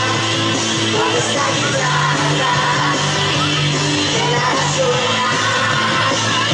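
Loud rock music with yelled vocals over a steady band.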